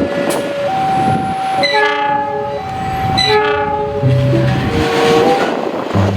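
Train horn sounding two blasts about a second apart, over the steady running noise of a train.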